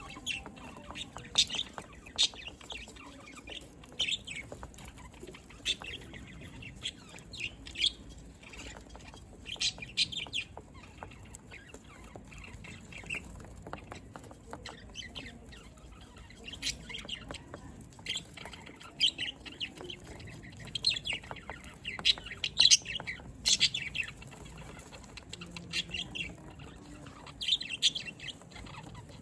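Budgerigars chirping and chattering in short, high calls, on and off.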